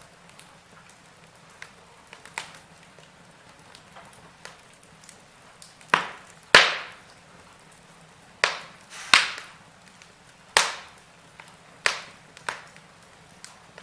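Wood fire crackling in a fireplace: irregular sharp pops and snaps over a faint hiss, with a run of louder cracks through the middle.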